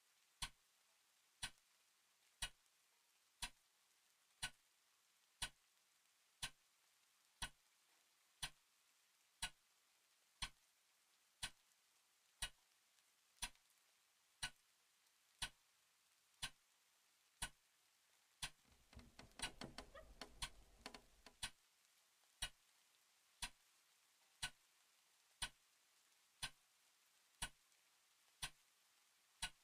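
A clock ticking steadily about once a second. About two-thirds of the way through, a low creak lasts about three seconds under the ticks.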